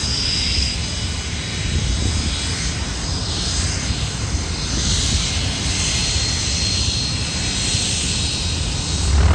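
Aircraft flying past at an airshow: a steady rushing engine noise, with slowly sweeping changes in tone.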